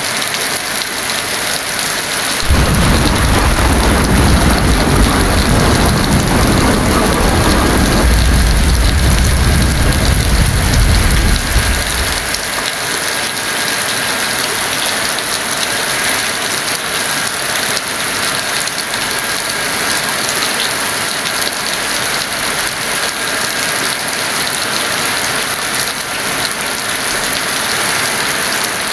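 Heavy rain falling steadily, with a rumble of thunder that starts a couple of seconds in and lasts about ten seconds before dying away.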